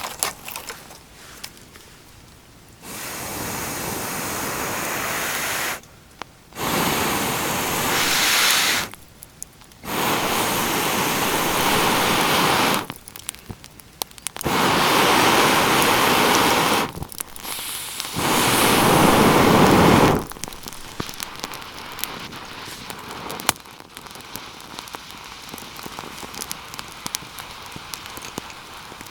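Five short stretches of a loud steady hiss, each starting and stopping abruptly, followed by a quieter stretch of scattered crackling and snapping, typical of a campfire burning.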